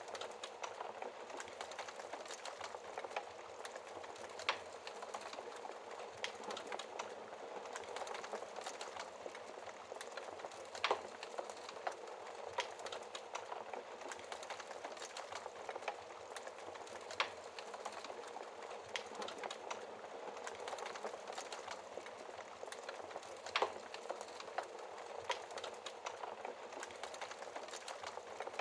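Wood fire crackling in a fireplace: a steady hiss full of small snaps, with a few louder pops spread through.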